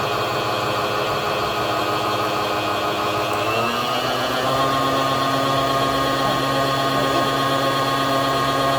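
Electric stand mixer's motor running steadily as it beats a thick cream cheese and peanut butter filling. Its hum steps up in pitch about three and a half seconds in as the speed is raised, then holds.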